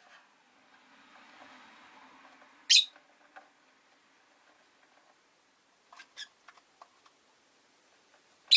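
Rosy-faced lovebirds calling: two loud, very short, shrill calls, one about three seconds in and one at the end, with a few faint short chirps in between.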